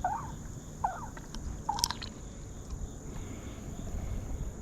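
A bird giving short calls, about one a second, three times in the first two seconds. Under it runs a steady high insect drone.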